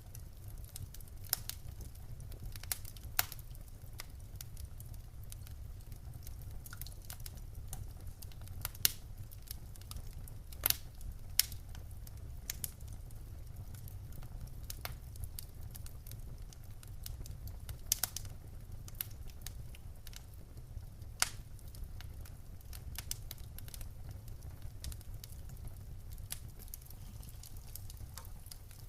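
Wood fire crackling in a fireplace: irregular sharp pops and snaps over a steady low rumble, with a few louder pops around the middle.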